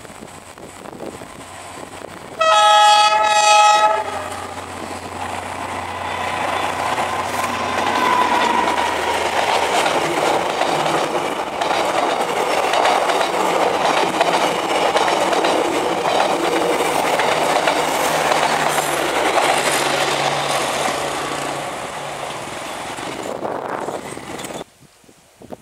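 Diesel locomotive sounds its horn once, a loud chord lasting about a second and a half, then the locomotive and its passenger coaches run past close by, wheels clattering on the rails. The sound cuts off sharply near the end.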